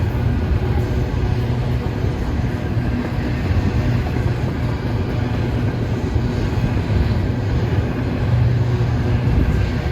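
Freight train rolling past, a steady low rumble with a faint engine hum.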